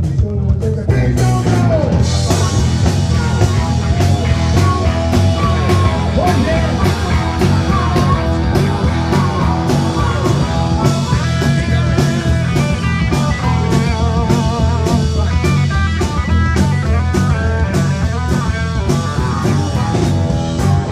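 Live band playing rock music, with electric guitar over bass and a drum kit; the full band comes in about a second in.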